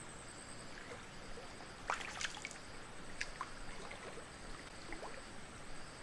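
Steady high-pitched insect chirring with a second, pulsing insect call underneath. About two seconds in comes a short cluster of sharp clicks and small plinks, with a few fainter ones near the end.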